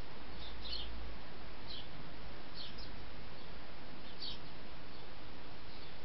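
Small songbird giving short, high chirps, about half a dozen at irregular intervals, over a steady hiss.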